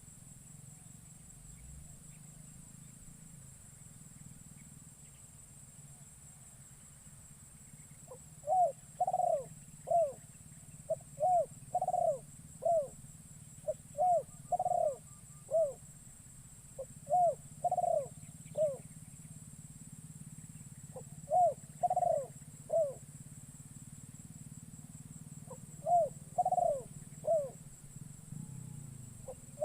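Spotted dove (terkukur) cooing, used as a decoy call to lure wild doves. It gives six phrases of three or four short coos each, starting about eight seconds in and repeating every few seconds. A steady high-pitched drone runs underneath throughout.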